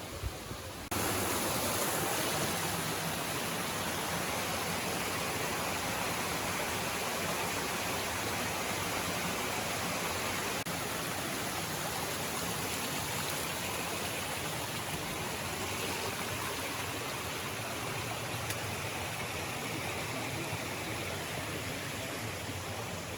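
Waterfall: a steady rush of falling water that starts abruptly about a second in.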